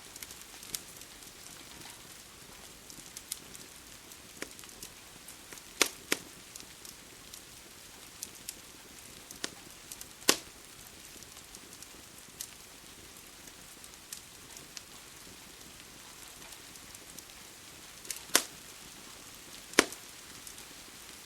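Wood fire crackling, with sharp pops at irregular intervals, the loudest around six seconds in, about ten seconds in and twice near the end, over a steady hiss of rain.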